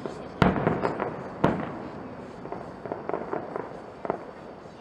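Fireworks display: two loud shell bursts about a second apart, each trailing off in a rolling echo, followed by a run of smaller pops and crackles.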